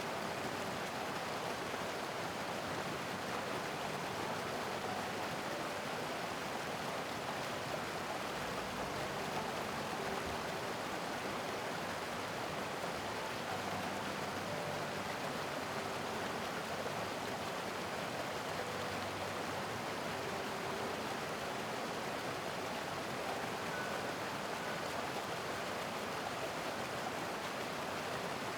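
Mountain stream rushing steadily over rocks: a constant, even water noise.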